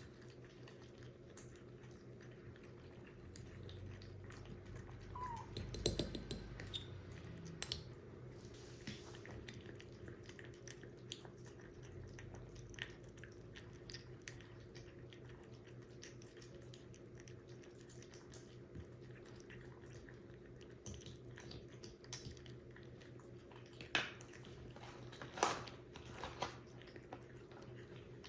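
Kitten eating dry kibble: faint crunching with small clicks and taps against its dish, a few sharper taps near the end, over a steady low hum.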